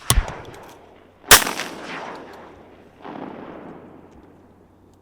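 Two loud shotgun blasts, one just after the start and one about a second later, each trailing off in a long echo, then a softer, duller crash about three seconds in.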